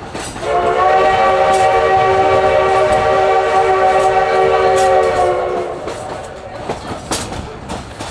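Steam whistle of Baldwin 2-8-2 locomotive #152 sounding one long steady blast of about five seconds, heard from a passenger car behind it. Faint clicks of the car's wheels on the rail joints run underneath.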